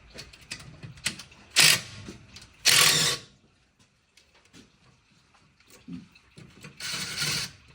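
Hand socket ratchet clicking in three short bursts as bolts are worked loose, with scattered small tool clicks between them.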